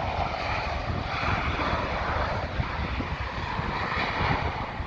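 Jet engines of an Airbus airliner coming in to land, a steady rush over a low rumble.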